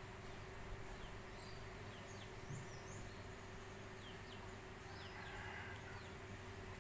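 Faint outdoor ambience of small birds giving short, scattered chirps over a steady low hum and hiss.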